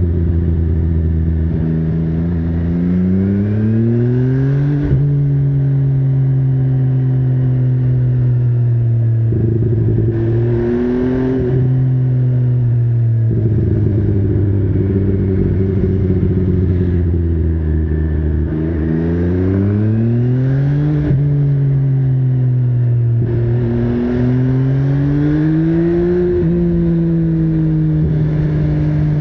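MV Agusta Brutale 800's inline three-cylinder engine under way, rising in pitch as it accelerates and dropping sharply at each upshift, several times over, with stretches of steady cruising between.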